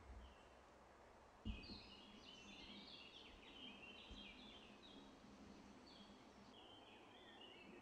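Faint birdsong: rapid runs of short, high chirps starting about a second and a half in, pausing briefly, then starting again near the end. A low thump comes as the first run begins, with a smaller one a few seconds later.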